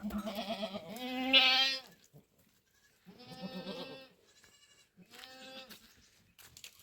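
Goats bleating: a run of wavering calls, each about a second long, the loudest about a second in, then two more with short gaps between.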